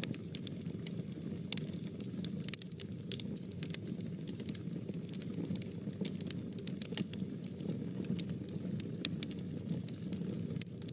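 Fire burning in a fireplace: a steady low rumble of flames with frequent irregular sharp crackles and pops.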